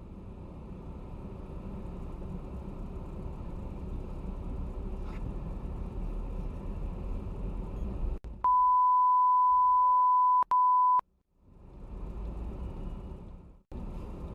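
A dashcam's recording of driving noise: low, steady road and engine rumble. Then comes a loud, steady, single-pitched electronic beep lasting about two and a half seconds, broken once for an instant, followed by more road rumble after a cut.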